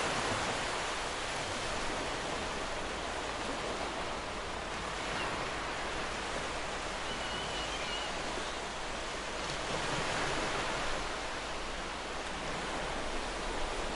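Ocean surf washing onto a beach: a steady rush of waves that swells as a wave breaks about ten seconds in.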